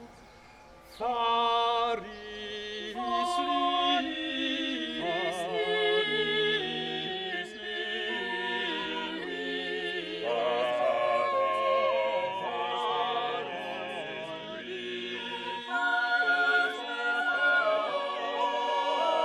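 A cappella choir singing sacred Christian choral music: several voices holding long overlapping notes with vibrato, coming in strongly about a second in.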